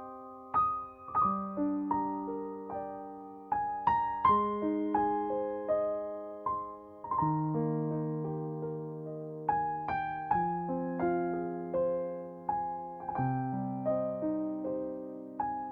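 Slow, gentle piano music: single struck notes and chords that ring and fade, played as a calm arpeggiated accompaniment.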